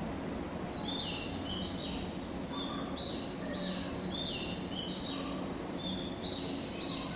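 High bird-like chirps, each falling in pitch, come in two near-identical runs of several chirps, over a steady low hum.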